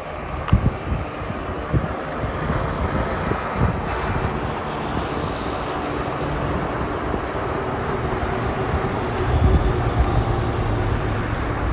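Outdoor background noise: a steady rumble that swells about three-quarters of the way through, with a few low wind thumps on the microphone near the start.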